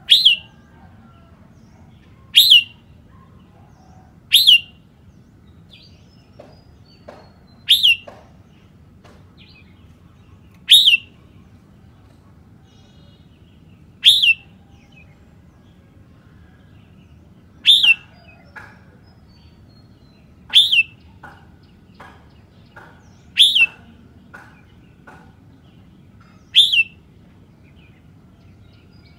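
Red-whiskered bulbul calling: a short, sharp, loud note repeated about every two to three seconds, with fainter, softer chirps in between.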